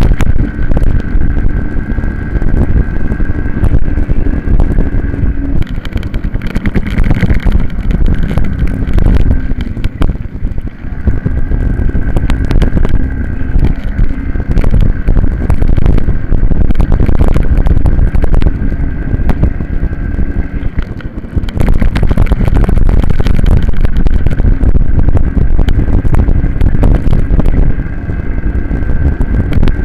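Racing minibike engine held at high revs, with heavy wind buffeting on the bike-mounted camera's microphone. The engine note drops away briefly about six, ten and twenty-one seconds in, then picks up again.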